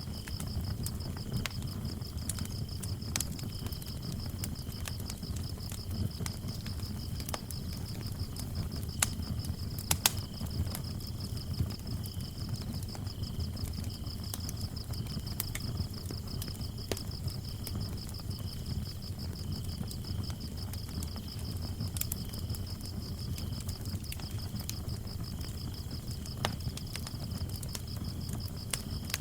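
Fireplace fire crackling and popping over a low rumble, while crickets chirp in a continuous fast high trill. A second, lower cricket chirps on and off, and a few louder pops come about a third of the way in.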